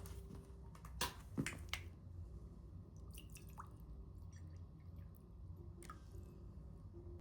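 A few light clicks and taps from small objects being handled, the clearest three about a second in, over a low steady hum.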